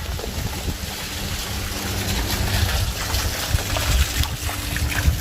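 Heavy rain mixed with hail falling steadily, with scattered small ticks of impacts and water running off. Wind buffets the microphone.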